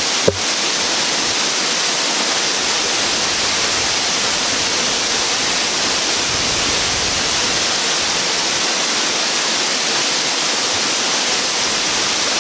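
Waterfall rushing in a steady, even roar of falling water. A single sharp click sounds just after the start.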